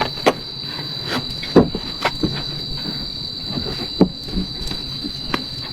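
Steady high-pitched drone of rainforest insects such as cicadas or crickets, with irregular knocks and clicks over it; the loudest knocks come about one and a half seconds in and about four seconds in.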